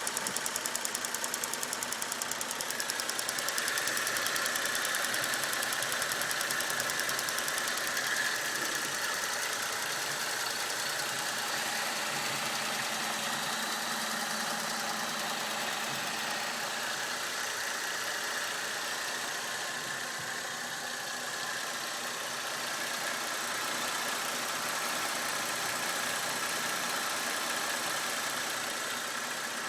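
Holden VE Commodore SV6's 3.6-litre LY7 V6 running steadily with a rapid, even knocking, which the owner asks about as possible engine knock.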